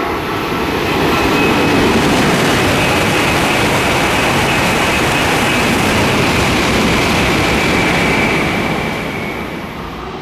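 Coupled Tohoku Shinkansen bullet train passing through at speed without stopping: a loud rush of air and wheel noise that swells within about a second, holds steady for several seconds, and fades near the end.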